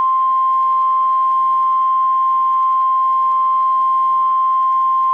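NOAA Weather Radio warning alarm tone: a single steady 1050 Hz tone over faint hiss from the radio receiver, the signal that a warning broadcast follows.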